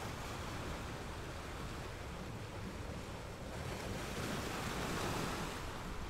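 Small, calm ocean waves washing onto a sandy beach, a steady surf hiss with one wave's wash swelling louder about four seconds in.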